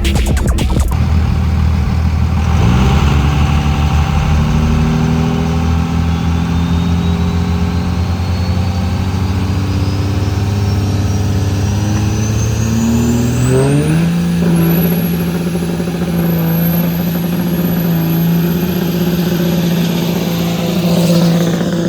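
Diesel pickup truck engine revving hard and held at high revs, its pitch stepping up twice, with a high whistle that climbs steadily for about ten seconds and then wavers. This fits a truck doing a burnout.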